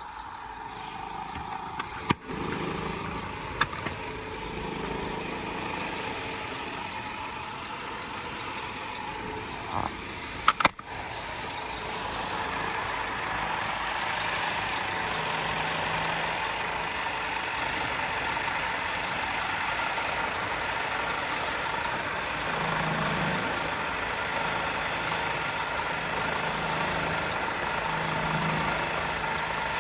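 Scania P230 truck's diesel engine running steadily, with a few sharp clicks or knocks in the first third. It gets louder and fuller about eleven seconds in and stays that way.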